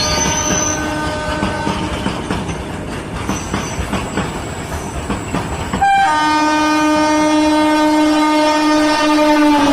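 Trains passing on Indian Railways track: wheels clattering rhythmically over the rail joints. A train horn sounds for about a second and a half at the start, then a louder, long steady horn blast begins about six seconds in.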